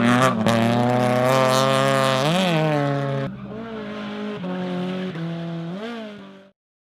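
Toyota AE86 drift car's engine running at high revs, its pitch dipping and swinging back up as the throttle is worked through the slide, with a haze of tyre noise. About halfway through it cuts to a quieter, more distant run of the same kind, which rises once more and then fades out.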